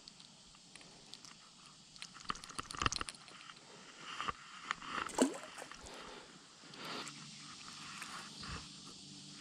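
Clicks, knocks and scrapes of fishing gear being handled in a small boat. A steady low hum starts about seven seconds in.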